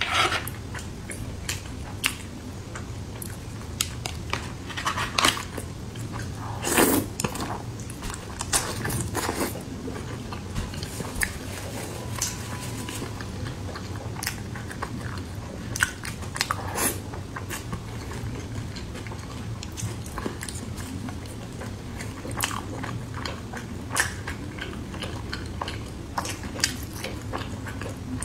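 Close-miked eating sounds of a person biting into and chewing pan-fried pork buns (shengjian bao): wet mouth smacks and small clicks at irregular moments, with a few louder bites.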